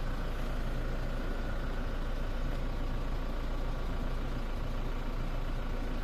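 A car engine idling steadily close by, a low even rumble.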